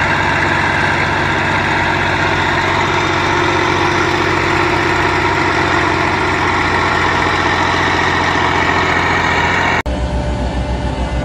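A heavy machine's engine running steadily. About ten seconds in, the sound cuts abruptly to another engine with a low, even pulsing throb.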